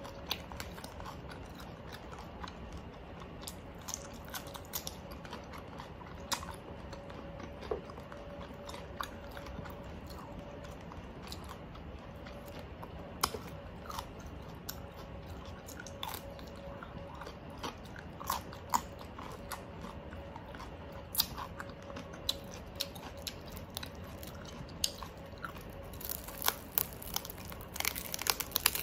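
Close-miked chewing of crispy oven-baked pork, with scattered sharp crunches of the crackling skin. Near the end comes a denser run of crackles as fingers tear at the crisp skin.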